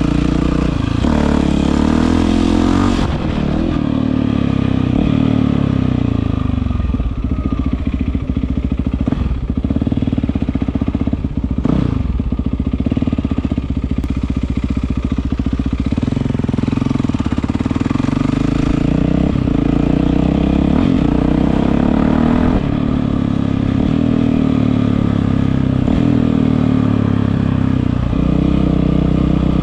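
Yamaha WR450F's single-cylinder four-stroke engine running loudly through an Akrapovič exhaust, its pitch rising and falling again and again as the throttle is opened and closed.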